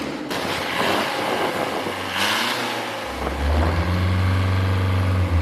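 Long-tail boat engine running. About three seconds in, a deep engine drone comes in loud and steady over the hiss of wind and water.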